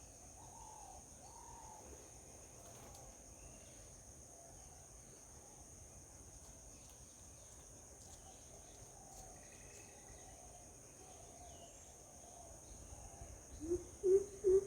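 Steady high-pitched insect chirring, with faint bird chirps now and then. Near the end, a loud run of low, evenly repeated calls starts up, about three a second.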